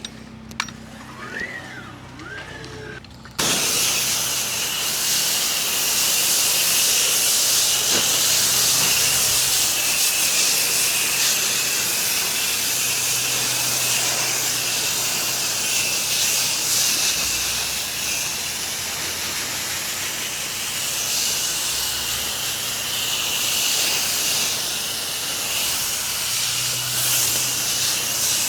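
Pressure washer wand spraying water: a steady, loud hiss that starts suddenly about three seconds in and keeps going, with the low hum of the pressure washer running underneath.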